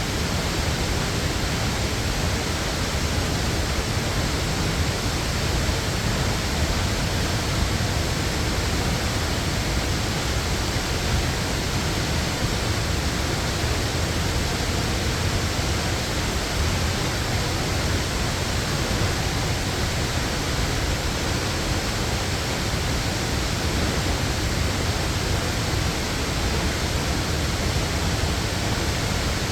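Waterfall: a steady, unbroken rush of falling water, even across all pitches.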